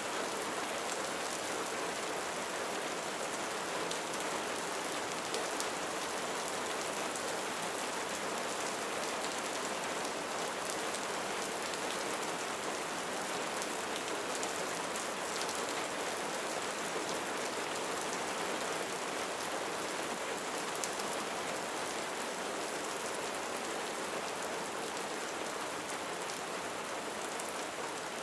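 Steady rain falling on a roof, a dense even hiss with many fine drop ticks.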